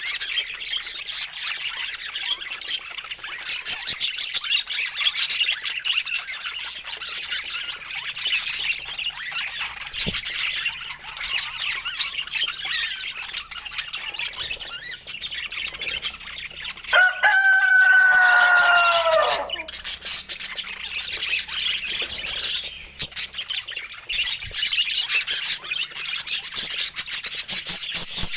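Budgerigars chirping and chattering continuously in a busy high warble. About two-thirds of the way through, a louder, drawn-out bird call of about two seconds falls in pitch over the chatter.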